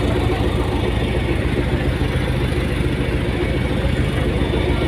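Fast ferry's engines running with a steady low drone and hum, heard from on board.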